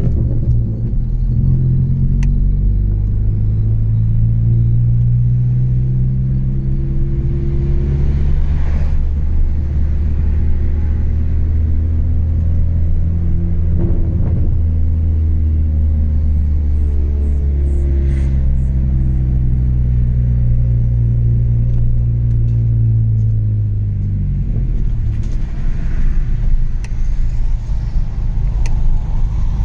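Chevrolet Astra 2.0's four-cylinder engine running through a straight-through exhaust with no muffler, a low exhaust drone under steady driving. Its pitch climbs in the first second, holds through a long cruise, then drops and climbs again about 24 seconds in.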